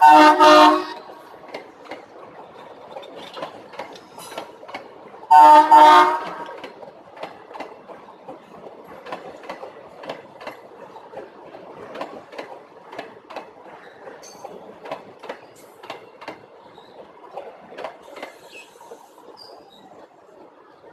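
Train horn sounding, one blast ending about a second in and a second blast of about a second around five seconds in. After that, wheels clack over the rail joints as the train passes, fading away toward the end.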